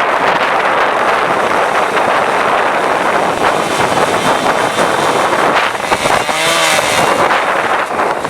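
Strong gusting wind buffeting the microphone as a loud, rough rushing noise, with a short wavering tone about six and a half seconds in.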